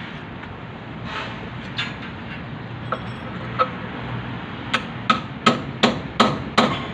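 Hammer blows fixing a core drill's base to a concrete slab: two single strikes, then a run of six quick ringing blows about 0.4 s apart near the end.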